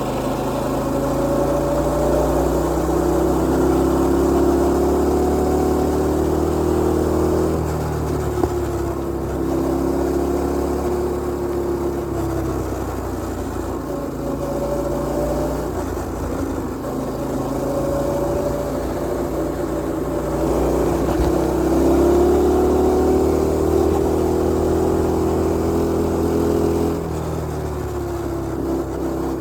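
Mini bike's Predator 212 single-cylinder engine running under way, its note climbing and holding high under throttle, then dropping off twice as the throttle is eased, about seven seconds in and again near the end.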